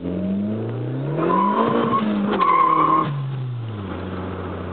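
Mercury Tracer's swapped-in turbocharged 1.8 L four-cylinder revving up hard, its pitch climbing for about a second and a half, with two bursts of a high squeal. After about three seconds the revs drop away and it settles to a steady low running note.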